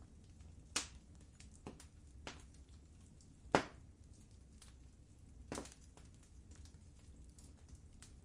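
Wood fire crackling in a fireplace: irregular sharp pops and snaps, the loudest about three and a half seconds in, over many faint ticks and a low steady rumble.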